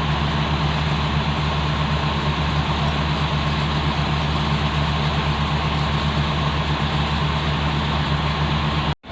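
Heavy diesel engine running steadily at an even speed, with no revving. The sound cuts out for a moment near the end.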